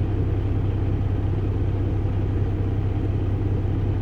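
Kenworth T680 truck's diesel engine running with a steady low drone, heard from inside the cab.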